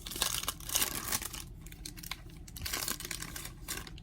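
Crinkling and rustling of a foil trading-card pack wrapper being handled, in two spells of crackly bursts: one in the first second or so and another about three seconds in.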